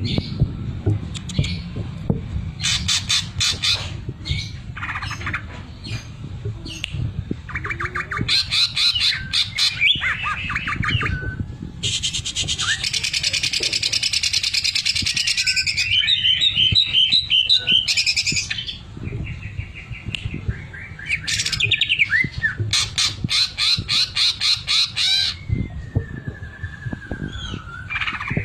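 Greater green leafbird (cucak ijo) singing loudly, its song filled with fast, evenly spaced rattling pulse trains imitating a sewing machine, mixed with whistled and harsh warbling notes.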